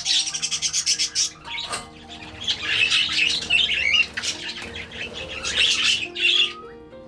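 Pet budgie chirping and chattering in quick, high notes.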